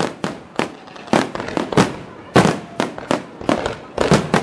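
Fireworks display: aerial shells bursting in quick, irregular succession, about a dozen sharp bangs in a few seconds.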